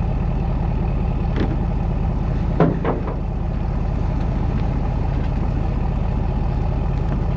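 Vehicle engine running steadily with a low rumble, heard from inside the cabin, with a brief sharper sound a little under three seconds in.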